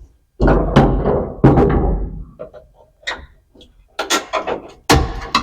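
About five knocks and clunks as a part held in by a bolt is tugged and rattled against the truck's body.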